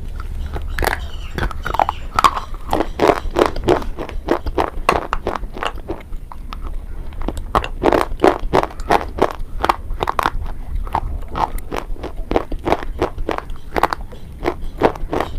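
Close-up biting and chewing of a hard, brittle item, a rapid run of crisp crunches at about three to four a second.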